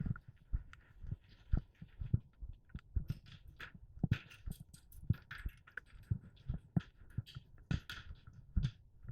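Irregular muffled thumps, about one or two a second, each with a short rustle, from the wearer's movement and gear, heard through a helmet-mounted camera's microphone.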